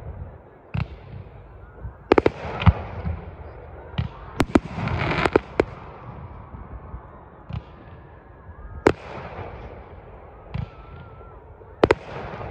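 Fireworks going off: aerial bursts banging sharply about a dozen times at uneven gaps, with a denser cluster of bangs and crackle about halfway through.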